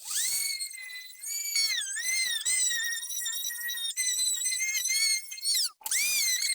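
High-pitched squealing whine from a power tool working on small-engine parts, its pitch dipping and rising with the load and cutting out briefly near the end.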